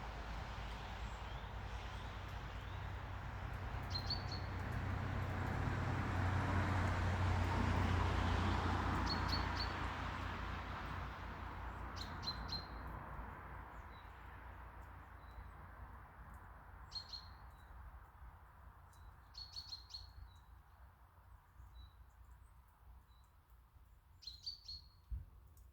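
Small birds chirping, short high calls repeated every few seconds and clearer later on. Under them a low rumbling noise swells to its loudest about eight seconds in, then fades away.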